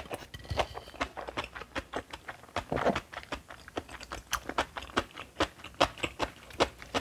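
Close-miked chewing of bibimbap with crisp seasoned aged cucumber (nogak muchim): a quick run of crunches, about three or four a second.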